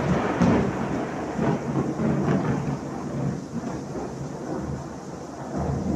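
Heavy tropical downpour: a dense, steady hiss of rain with a low rumble under it, loudest at the start and easing slightly.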